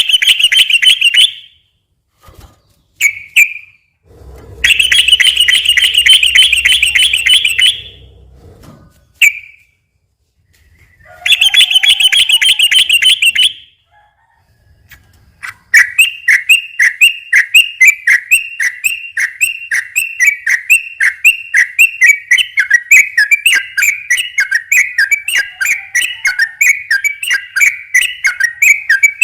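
Yellow-vented bulbul (trucukan) singing its rapid rolling 'ropel' song: three short bursts of fast chatter separated by pauses, then a long unbroken run of quick repeated notes from a little past halfway.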